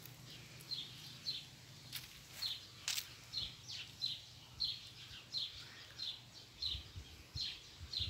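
A bird calling faintly with short, high chirps that drop in pitch, repeated about twice a second.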